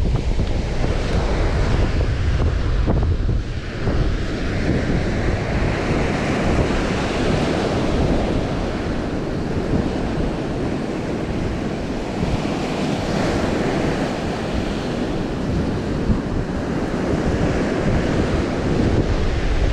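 Strong wind buffeting the microphone over the steady wash of sea surf.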